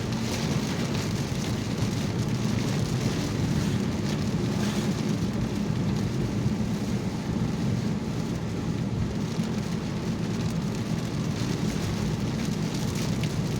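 Rain falling on a car's roof and windshield, heard from inside the cabin, over the steady low drone of the car driving on a wet road.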